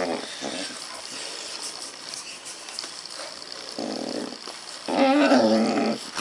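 A puppy making odd vocal noises: a short rough sound a little after the middle, then a drawn-out, slightly falling whining cry near the end, with a faint hiss between the sounds.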